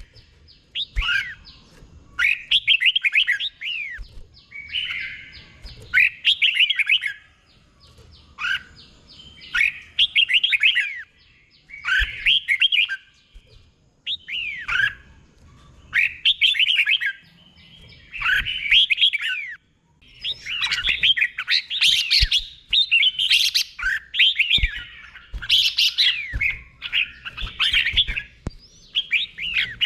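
Red-whiskered bulbul singing: short phrases of quick, sweeping whistled notes repeated about every two seconds. The phrases come thicker and overlap in the last third.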